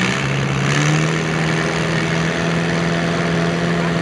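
Antique farm tractor engine running steadily under load; its pitch rises a little in the first second, then holds.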